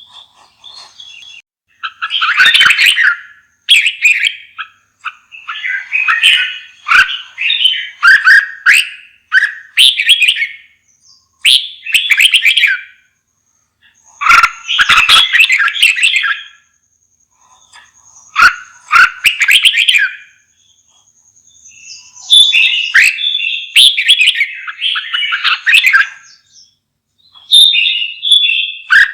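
Red-whiskered bulbul singing: short warbling song phrases of a second or two each, repeated with brief pauses.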